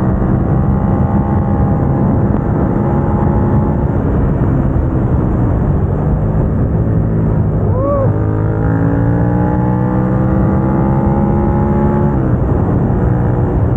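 Suzuki SV650's 645 cc V-twin running through a Dominator GP aftermarket exhaust, heard onboard while riding. The engine note eases off at first, gives a brief up-and-down blip about eight seconds in, then climbs steadily in pitch under throttle before dropping sharply near the end, as at a gear change.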